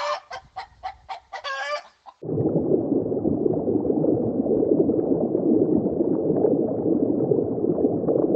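A chicken clucking: a run of short clucks and then a longer drawn-out call. About two seconds in it cuts abruptly to a dense, steady, lower-pitched noise with no clear calls in it.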